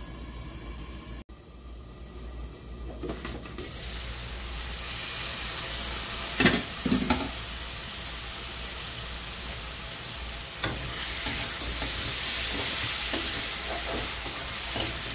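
Onion-tomato masala sizzling in a metal kadai as a metal spatula stirs it, with a few sharp scrapes and knocks of the spatula against the pan. The sizzle builds over the first few seconds, then holds steady.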